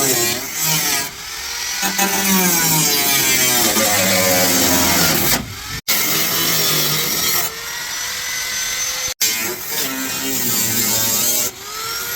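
A handheld power tool running loud, its motor pitch sagging and recovering again and again as it is pressed onto the work. The sound breaks off abruptly twice, about six and nine seconds in.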